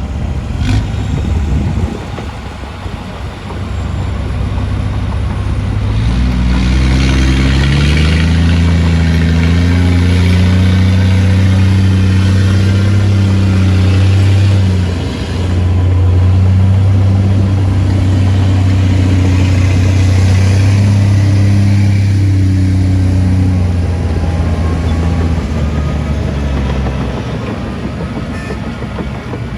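Diesel engine of heavy earthmoving machinery revving up about six seconds in, running hard with a brief dip midway, then dropping back and fading near the end.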